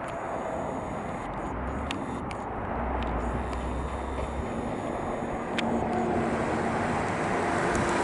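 A 2013 BMW 640i, with its 3.0-litre turbocharged inline-six, driving on a road: steady tyre and road noise with a low engine hum. It gets louder about five and a half seconds in.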